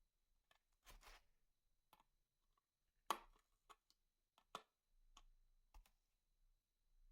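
Faint, scattered clicks and knocks of small hard objects being handled, with a short scraping rustle about a second in and the sharpest click about three seconds in.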